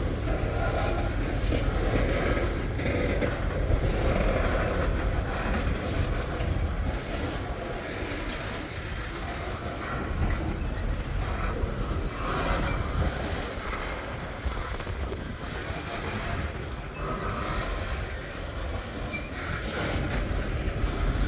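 Freight train cars rolling past on the rails, with a steady low rumble of wheels on track.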